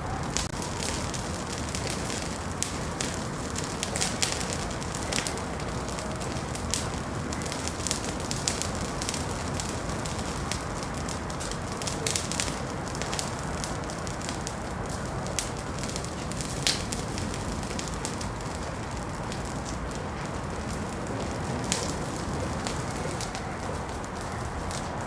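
Wood fire burning in a fireplace, with sharp pops and crackles scattered irregularly over a steady low hiss.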